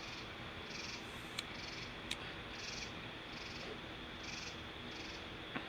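Night insects chirping: rhythmic high-pitched pulses about every 0.7 s over a steady high trill. A few faint sharp pops come through, the last one near the end.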